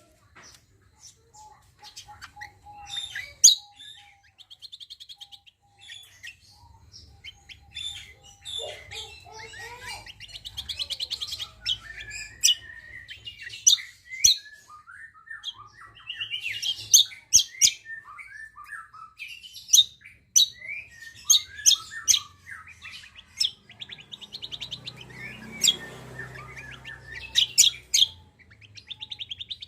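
Songbirds singing busily: sharp high chirps, rapid buzzy trills and gliding whistled phrases, one after another.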